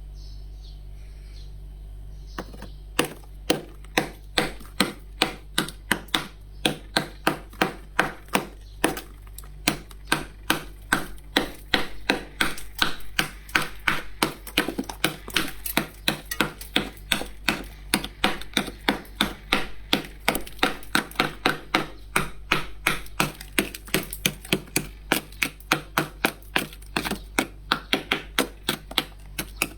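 Frost being scraped off a humidifier with a tool in quick, regular strokes, about two a second, starting about three seconds in.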